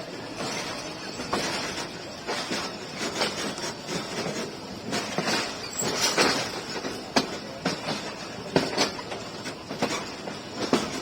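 Passenger train rolling through a station, its wheels clattering over rail joints and points in irregular sharp clacks over a continuous rumble.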